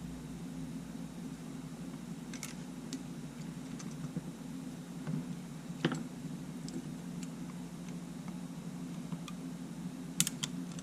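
Scattered small clicks and taps of tools and small camera parts being handled during bench reassembly, the sharpest near the middle and a quick pair near the end, over a steady low hum.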